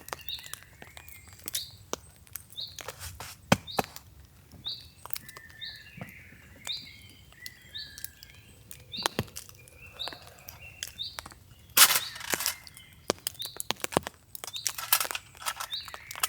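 Woodland birds chirping, one repeating a short high note about once a second, over scattered sharp taps and cracks, with a louder crackling burst about twelve seconds in.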